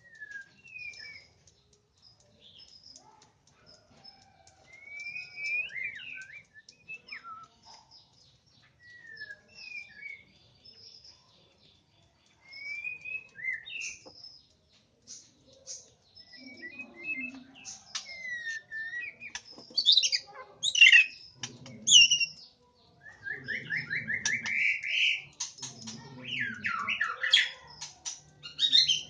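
White-rumped shamas calling: scattered short whistled chirps and gliding notes, sparse at first and then louder and busier in the second half, with a quick run of rising notes near the end.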